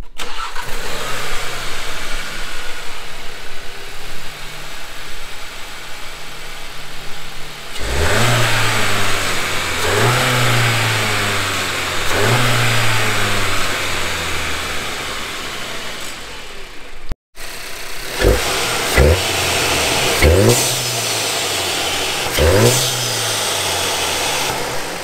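2019 Volkswagen Jetta GLI's turbocharged 2.0-litre four-cylinder engine idling, then revved three times, each rev rising and slowly settling, with the stock intake. After a brief cut, it is blipped several times in short, sharp revs with an Integrated Engineering cold air intake and open cone filter fitted.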